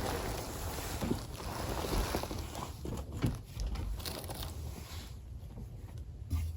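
Rustling and scraping of a person crawling through a crawl space, with scattered knocks and bumps and close handling noise on the camera; the movement eases off near the end.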